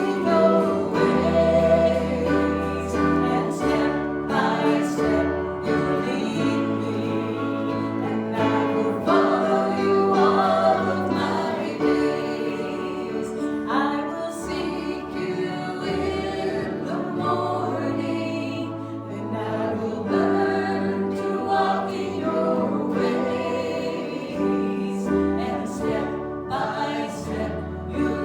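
Worship song sung by a group of voices over instrumental accompaniment, with a low bass line that moves to a new note every couple of seconds.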